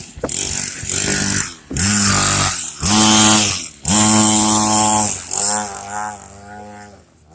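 Small dirt bike engine revved in about four bursts of a second or so, each rising as the throttle opens, then dropping to a lower, uneven idle near the end.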